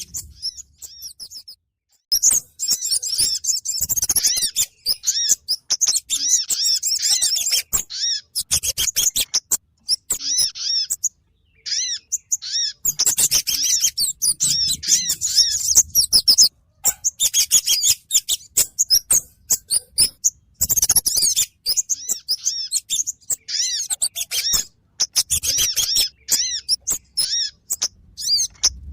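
Bird-lure recording of kemade and sogon birds calling: rapid, high-pitched chirping and twittering in bursts of a few seconds with short breaks between them.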